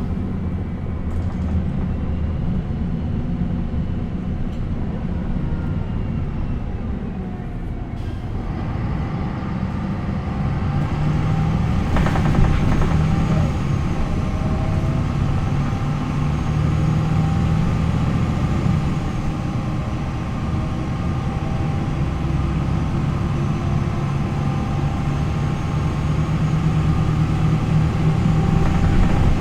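MAN NL 263 city bus's D28 six-cylinder diesel with its ZF Ecomat automatic gearbox under way. The engine note falls over the first several seconds, then rises again from about eight seconds in as it pulls, with a sharp click about twelve seconds in.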